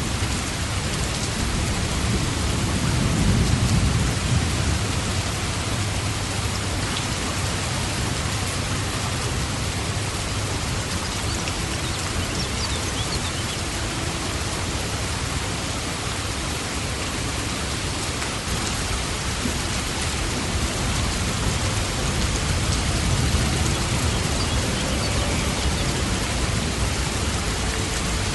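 Steady, dense rainfall hissing evenly, with low rumbles of distant thunder swelling about three seconds in and again near the end.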